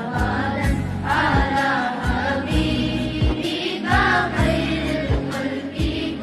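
Devotional naat music: a sung vocal line over layered background voices, with a steady beat of low knocks about twice a second.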